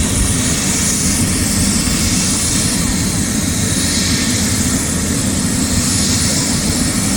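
Helicopter in flight, heard from on board: a loud, steady, unbroken engine and rotor drone with hiss.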